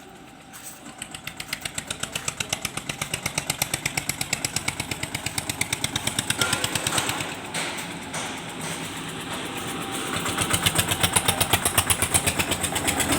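A machine running with a rapid, even pulse of about six beats a second. It grows louder over the first few seconds, dips about two-thirds of the way through and swells again near the end.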